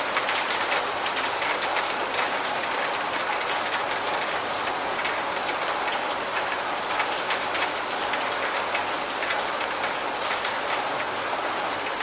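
Steady rain: an even hiss dotted with the ticks of many close drops.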